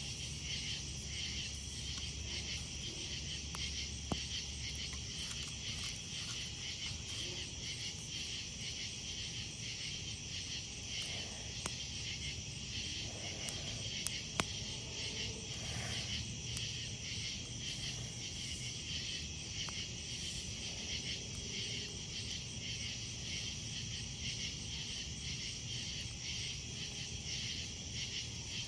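A steady chorus of night insects, crickets among them, trilling in a fast, even pulse. A few sharp single pops from a wood campfire crackling come through about four seconds in and again around twelve and fourteen seconds.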